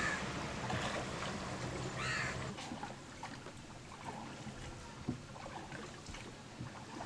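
A passing boat's engine hum fades away about two and a half seconds in, leaving water lapping with scattered small splashes and knocks.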